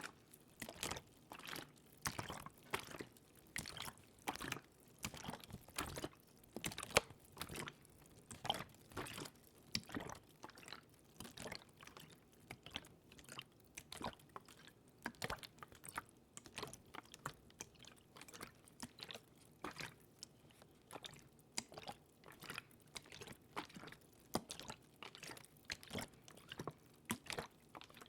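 Close-miked ASMR water sounds: an irregular run of small wet clicks and crackles, several a second.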